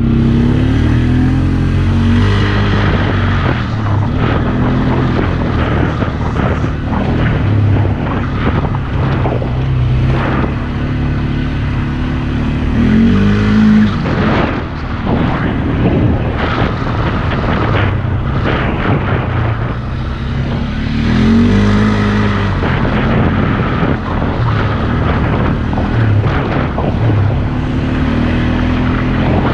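Polaris Sportsman 400 ATV's single-cylinder four-stroke engine revving up and dropping back again and again as it is ridden, with rough noise and knocks over the top.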